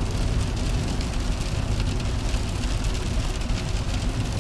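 Steady rain falling on a moving car, with a constant low rumble of road and engine underneath and fine patter of drops.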